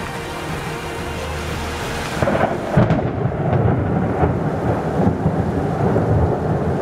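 Thunder in a thunderstorm: a steady low rumble that swells about two seconds in to a sharp clap, then keeps rolling, with rain noise under it.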